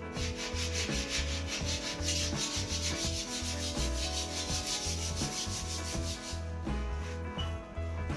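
Sandpaper rubbing back and forth on a new wooden snooker cue shaft in rapid strokes. The sanding stops about six and a half seconds in.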